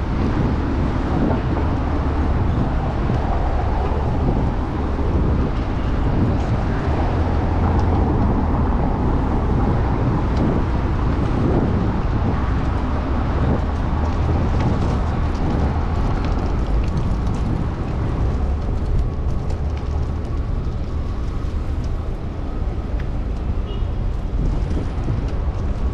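Steady low rumble of wind on the microphone and passing road traffic while riding a bicycle along city streets.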